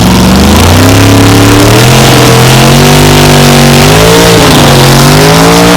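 Drag racing vehicle's engine at full throttle accelerating hard, very loud, its pitch climbing with two brief dips along the way.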